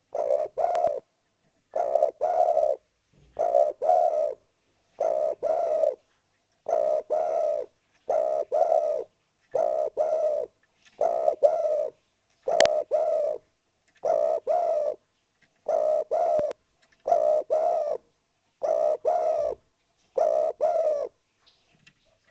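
Spotted dove (derkuku) cooing its song over and over: a low two- or three-note phrase about every second and a half, thirteen times in a row. A single sharp click falls about halfway through.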